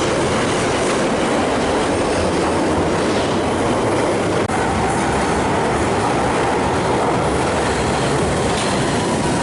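London Underground Central line train departing from the platform, loud and steady.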